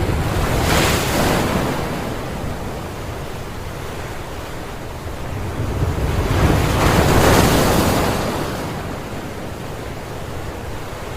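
Rough, stormy sea: heavy waves surging and breaking over steady wind, with two big swells, one about a second in and a longer one around seven seconds in.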